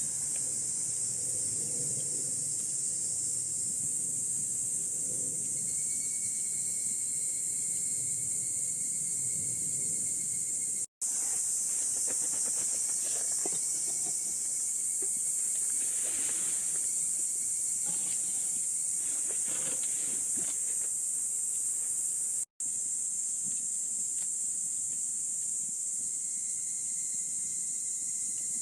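A steady, high-pitched chorus of insects, continuous and unbroken except for two instant cutouts.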